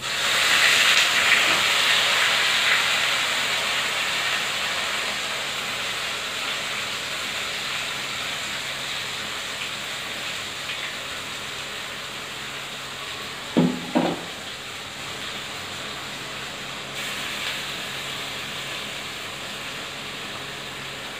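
Onion, ginger and garlic paste dropped into hot oil in a steel kadai, sizzling loudly at once, the hiss strongest at first and slowly easing as it fries. Two quick clanks a little past the middle.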